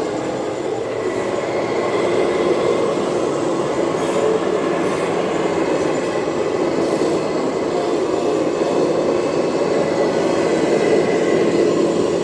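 Radio-controlled scale model trucks running: a steady mechanical drone.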